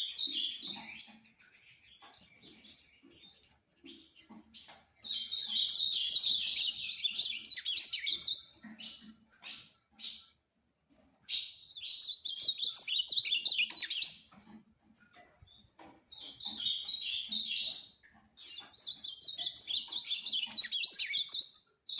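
Ultramarine grosbeak (azulão) singing: several rapid warbled song phrases, each one to three seconds long, separated by short pauses with a few single notes in between.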